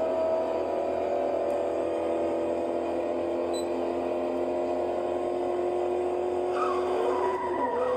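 A fire truck's motor running with a steady drone whose pitch slowly sinks, then wavers and shifts near the end.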